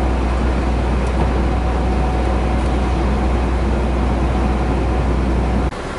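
Steady drone of a truck on the move, heard from inside its cab: a strong low engine rumble under a constant hiss of road and wind noise. It cuts off suddenly near the end, replaced by a quieter background.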